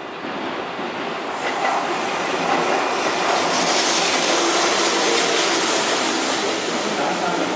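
Keihan 6000-series electric train running past along an underground station platform, its wheels rumbling and clattering on the rails. The sound swells a second or two in and stays loud.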